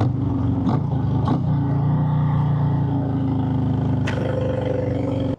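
Harley-Davidson motorcycle engine running steadily at cruising speed, heard from the rider's seat, with a steady rush of wind noise.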